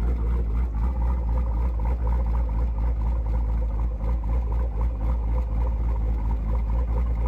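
Jeep Grand Cherokee SRT's HEMI V8, fitted with an aftermarket camshaft and a Borla ATAK exhaust, idling with a deep, slightly uneven pulse.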